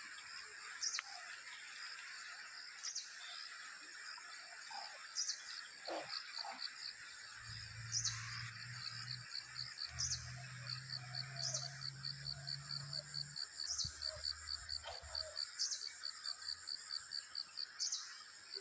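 Outdoor chorus of insects and birds: a steady high-pitched drone, with a sharp call repeating about every two seconds and long runs of quick, evenly spaced chirps. A low hum comes in partway through and fades out again.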